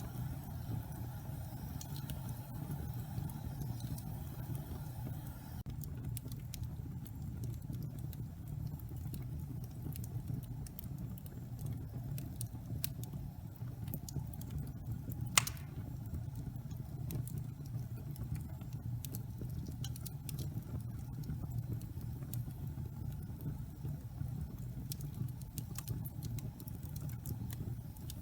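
Logs burning in a fireplace: a steady low rumble of the fire with frequent small crackles, and one sharp, loud pop about halfway through.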